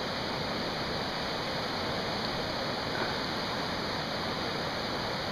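Steady rush of a flood-swollen river pouring across a washed-out road.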